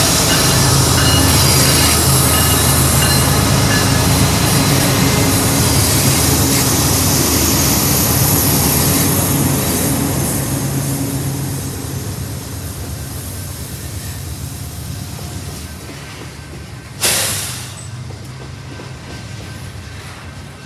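Union Pacific diesel locomotives passing close with their engines running, then loaded coal hopper cars rolling by on the rails. The engine noise fades as the locomotives move away. About three-quarters of the way through, a sudden loud burst dies away within a second.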